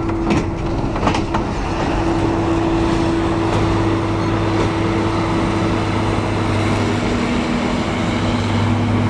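Heavy diesel harvest machinery, a tractor or forage harvester, running at steady revs, with a couple of knocks in the first second or so.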